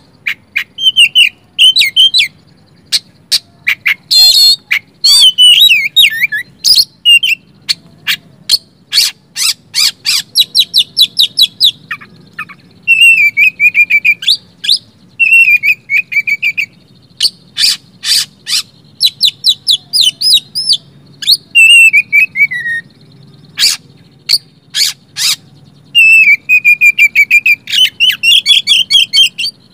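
Oriental magpie-robin (kacer) singing loudly in quick bursts: clear whistles, falling chirps and rapid clicking trills, one after another. This is the kind of kacer song played as a lure to set other magpie-robins singing.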